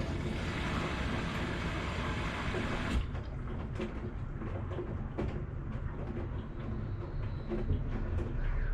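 Washing machine running: a steady rushing wash sound with a low rumble, which changes abruptly about three seconds in to the rumble with scattered soft knocks and clunks.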